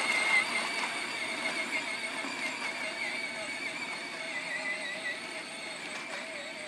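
Battery-powered ride-on toy tractor's electric drive motor and gearbox whining steadily in second gear, the pitch wavering slightly with load, slowly fading as it drives away.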